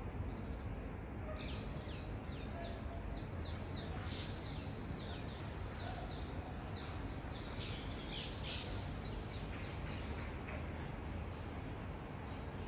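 Small birds chirping in quick, short, downward-sliding notes, a busy run of calls through the middle that thins out near the end. Underneath is a steady low rumble of distant city traffic.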